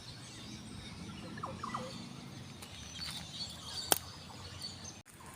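A few short bird chirps over faint outdoor ambience, with one sharp click about four seconds in.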